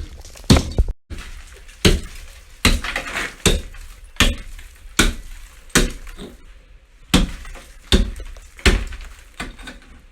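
A hand tool striking thick ice over and over, chipping and cracking it, about a dozen sharp blows at a steady pace of a little over one a second.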